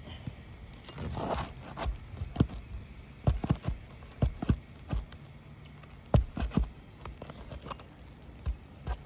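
Asphalt roof shingle being worked loose with a roof snake nail puller: a short scrape about a second in, then a run of irregular sharp clicks and knocks as the tool prises at the shingle and its nails.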